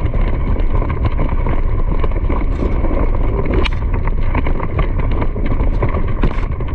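Wind buffeting the microphone as a steady low rumble, with scattered clicks and rattles of movement.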